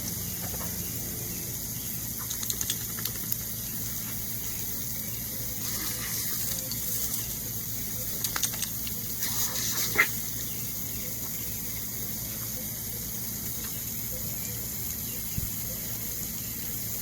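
Lawn sprinkler spraying water in a steady hiss, with a few short clicks and knocks scattered through it, the sharpest about ten seconds in.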